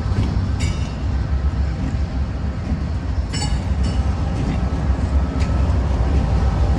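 Train rolling past with a steady low rumble, and two brief high metallic squeals from the wheels about half a second and three and a half seconds in.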